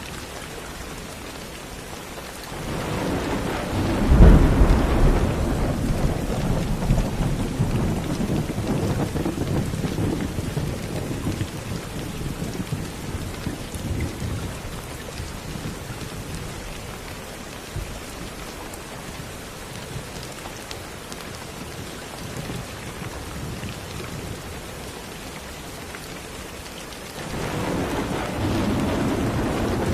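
Steady rain falling, with a roll of thunder that builds about three seconds in, peaks in a low boom and rumbles away over about ten seconds. Another thunder rumble begins near the end.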